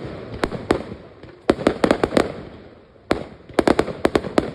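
Fireworks bursting overhead: sharp bangs coming in quick clusters of several a second, with a rumbling tail after each cluster and short lulls between them.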